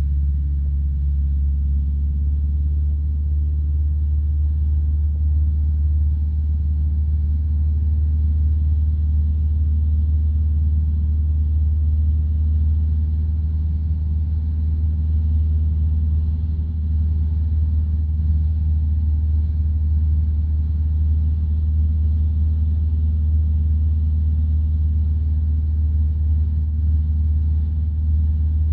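Van's RV-12 light aircraft's engine and propeller droning steadily in cruise, heard from inside the cockpit as a constant deep hum.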